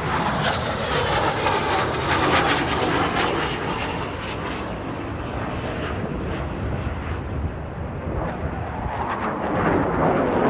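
Steady drone of aircraft engines, with many short sharp cracks through it, like a battle sound effect.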